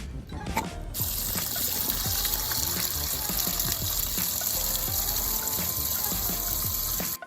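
A loud, steady hiss like a spray of water or air starts suddenly about a second in and cuts off suddenly near the end, over background music with a melody.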